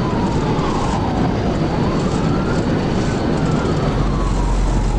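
Police siren wailing in slow rising and falling sweeps, about one rise and fall every three seconds, over loud steady road and engine noise from the pursuing cruiser.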